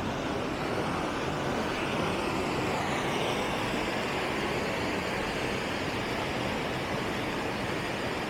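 Steady roar of a waterfall and its rapids: rushing water with no letup.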